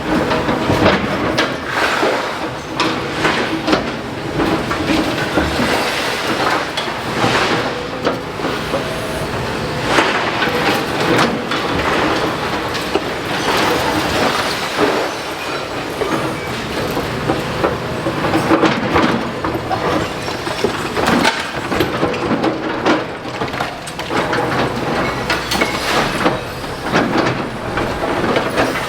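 Demolition excavator at work: its engine running under a continuous clatter of crunching, scraping and knocking debris and metal, with many sharp knocks throughout.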